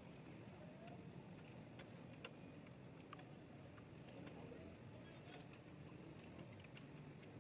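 Near silence: faint low background hum with a few light scattered ticks.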